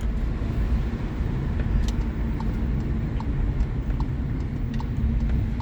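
A car driving: steady low engine and road rumble with a faint steady hum.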